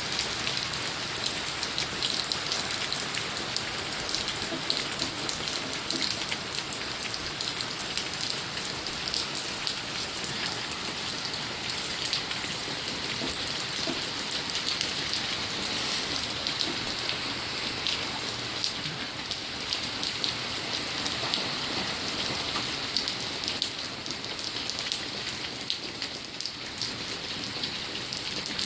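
Steady rain falling on a flooding patio, with many drops splashing into the pooled water.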